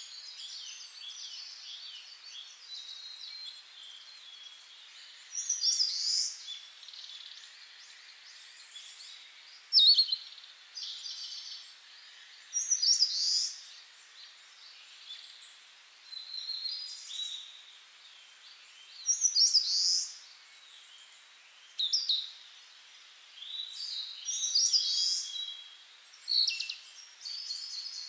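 Songbirds singing and chirping in short, high-pitched phrases, a new burst every two to three seconds.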